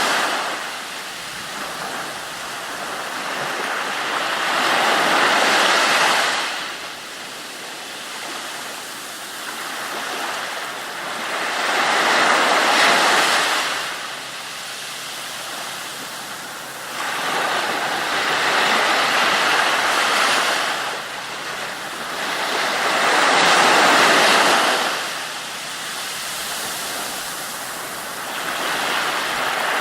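Ocean waves breaking and washing in over a steady rush of water, swelling about every five to six seconds.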